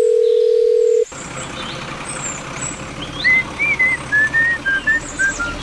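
A steady, single-pitched phone tone stops abruptly about a second in, as a call is being placed. From about three seconds in, a whistled tune of short notes gliding up and down plays over a steady background hiss.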